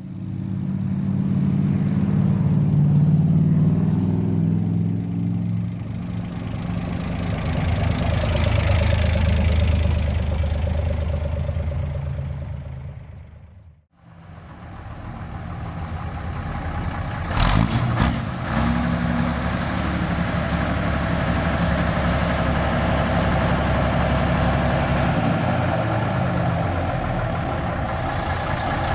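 Truck engines running steadily. The sound fades out and back in about halfway through, and there is a short sharp noise about three quarters of the way in.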